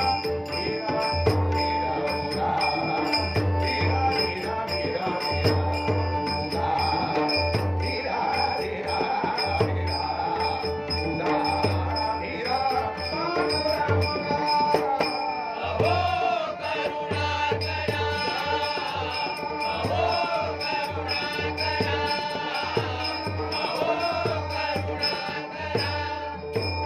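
Marathi devotional bhajan: singing over a steady drone, with a hand drum beating in regular strokes and small cymbals clinking in time. The singing comes in more strongly about halfway through.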